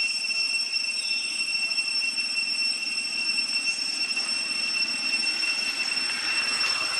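A steady high-pitched whine, one unwavering tone with overtones above it, over a low rumbling background, with a faint short chirp about a second in.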